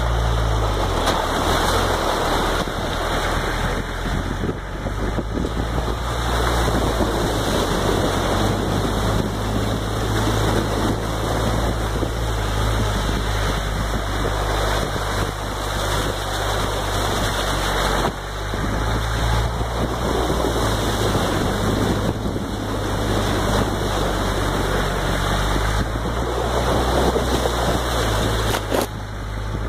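Off-road truck engine running at low speed as it drives through a long stretch of water over a rocky bottom, with water splashing and sloshing against the vehicle. The engine note shifts up and down with the throttle.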